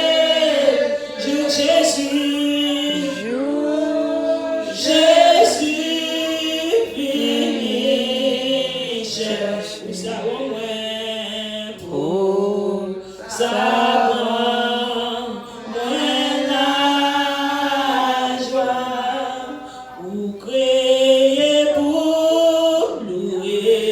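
Church congregation singing a worship song together, women's and men's voices in unison.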